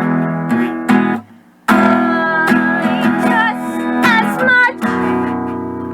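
Acoustic guitar strummed in chords that ring on, with a brief break about a second in before the strumming resumes. A wordless sung line wavers in pitch in the middle.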